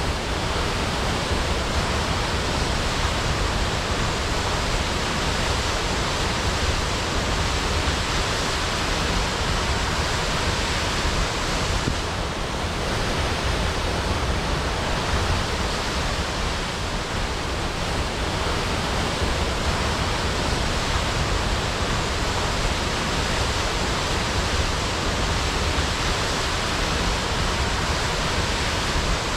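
Waterfall crashing: a steady, full roar of falling water with a deep rumble beneath.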